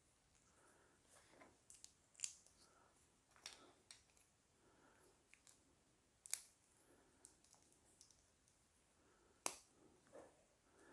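Near silence with a handful of faint, sharp clicks a second or more apart: plastic Lego pieces being snapped together.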